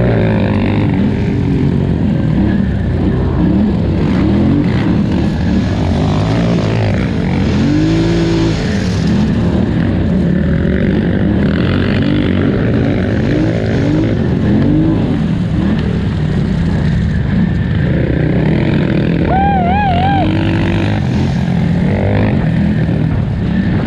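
2018 Polaris Scrambler XP 1000 ATV's twin-cylinder engine run hard under race throttle, its pitch rising and falling again and again as the throttle is worked on and off.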